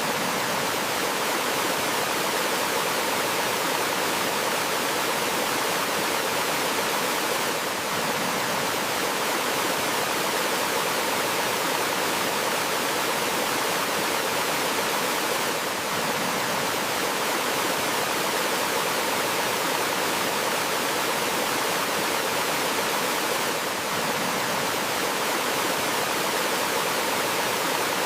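Steady rush of flowing water in a forest mountain stream, an even hiss with no birdsong standing out. A slight dip in level recurs about every eight seconds.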